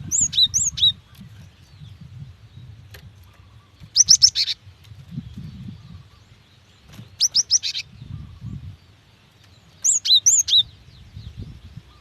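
Female cinereous tit (gelatik batu) giving her call to males: four short bursts of quick, high, upswept chirps, roughly three seconds apart, with a low rumble underneath.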